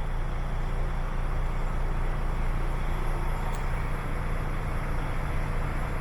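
Paccar MX diesel engine of a DAF XF105 tractor unit idling steadily, a constant low rumble.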